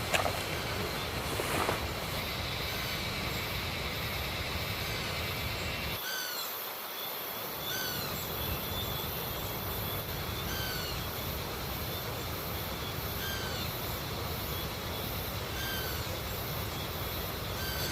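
Steady rush of a flowing river. A bird repeats a short call about every two and a half seconds over it, clearest after a few seconds in.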